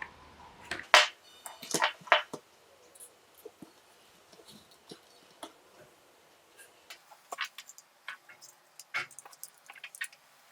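Close-up handling of a small diecast model car and its parts: three sharp clicks about a second in, then scattered light ticks and taps.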